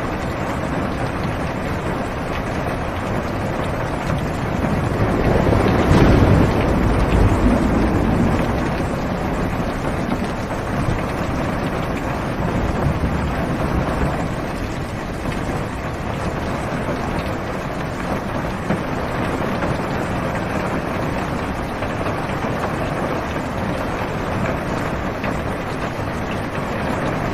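Steady heavy rain on a car's roof and windows, heard from inside the car. A low rumble of thunder swells about five seconds in and fades away over a few seconds.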